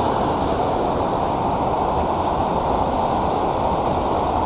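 Creek water rushing steadily, an even noise with no breaks.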